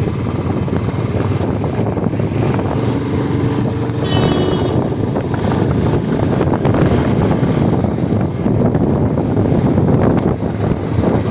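Motorcycle engine running steadily while riding, with wind buffeting the microphone. A brief high tone sounds about four seconds in.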